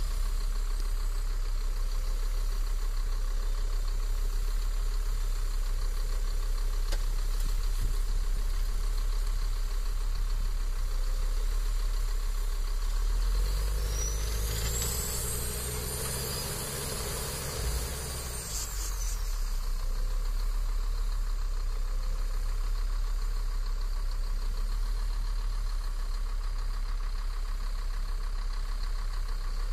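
A heavy vehicle's engine running at a steady idle with a low, even drone. About halfway through, a high whine rises, holds for a few seconds and falls away, while the engine note briefly thickens.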